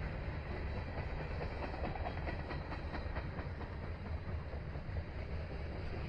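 Freight train rolling past, its wheels giving a steady low rumble with a run of clicks over rail joints from about two seconds in.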